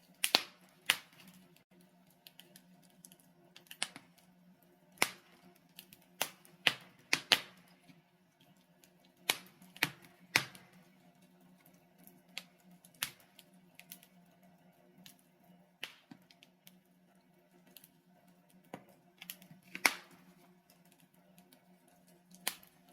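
Logs burning in a fireplace, crackling with irregular sharp pops and snaps, a few much louder than the rest, over a faint steady low hum.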